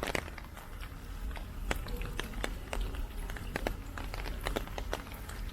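Heavy typhoon rain: large drops tap irregularly close to the microphone, several a second, over a steady low rumble.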